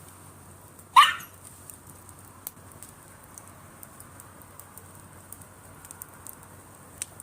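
Driftwood campfire crackling with scattered small pops. About a second in, a single loud, short animal call rises in pitch.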